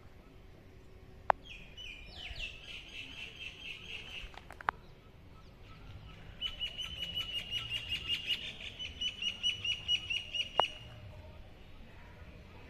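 A small bird singing: a quick run of high notes about two seconds in, then a longer fast series of evenly repeated high notes that grows louder before stopping. Three sharp clicks stand out, about a second in, near the middle and as the song stops.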